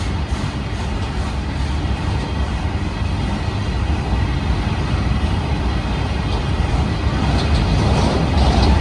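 Train running past on the track, a steady heavy rumble of wheels and rails that grows a little louder near the end.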